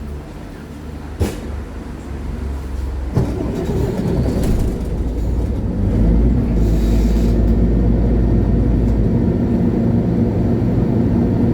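Inside a 2011 MAN Lion's City G (A23) articulated diesel bus: the engine runs low and quiet, with a click about a second in and a knock about three seconds in. Then the engine takes up load and grows louder as the bus pulls away, running steadily loud from about six seconds.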